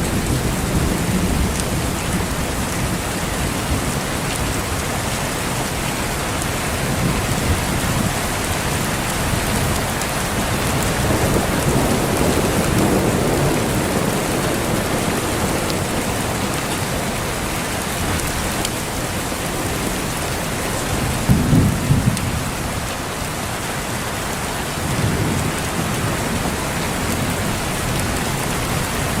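Heavy rain falling steadily, with rolling thunder underneath. A low rumble swells around the middle, and a louder thunderclap comes about three-quarters of the way through.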